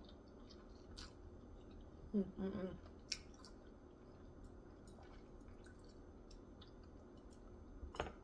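A person chewing food with faint clicking mouth sounds, a short voiced sound about two seconds in, and a few sharper clicks near the end.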